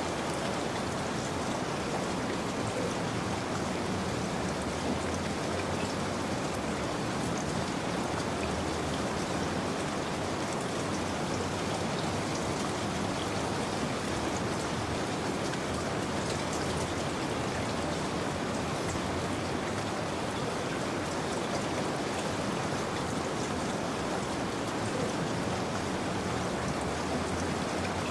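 Steady rain falling, an even hiss of drops striking a surface, with scattered faint drop ticks.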